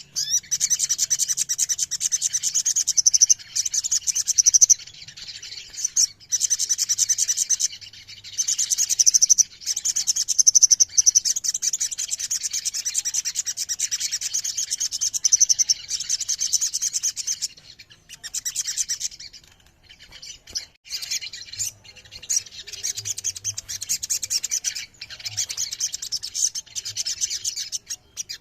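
Ruby-cheeked sunbird (sogon) singing a rapid, high-pitched rolling song in long runs of several seconds, broken by brief pauses.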